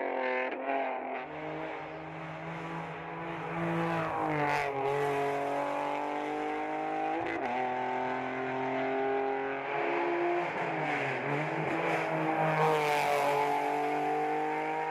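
Race car engine at full throttle on a hill climb. Its note climbs and drops sharply several times as it changes gear, with a brief dip and recovery later on as it lifts for a corner.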